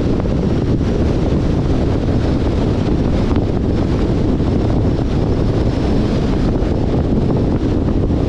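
Steady wind noise from air rushing over the microphone of a camera mounted on a moving car, mixed with the low rumble of the car and its tyres on the road.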